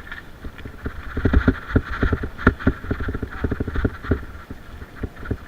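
Mountain bike rattling over rough ground: a rapid, irregular run of knocks and clatter from the bike, densest in the middle and thinning near the end, over steady tyre and wind hiss.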